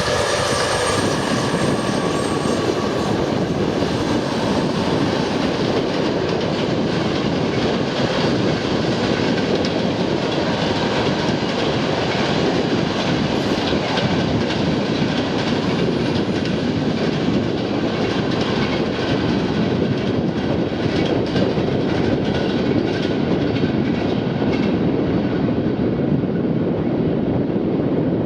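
A train running past with a steady rush of wheel and carriage noise and a faint clickety-clack in the second half, while cold wind buffets the microphone.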